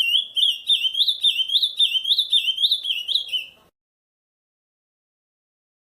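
Ultramarine grosbeak (azulão) singing the Camaquã song type: a quick run of clear whistled notes, each rising and falling, about three a second. The song stops a little over halfway in, and silence follows.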